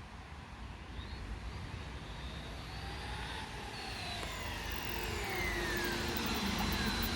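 Radio-controlled electric monster truck with a brushless motor, driving at speed. Its motor whine slides down in pitch several times and grows louder toward the end, over a steady hiss.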